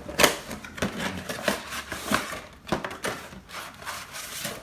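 Cardboard and plastic packaging of a trading card box being handled and opened: an irregular run of rustles, scrapes and taps, with the sharpest one just after the start.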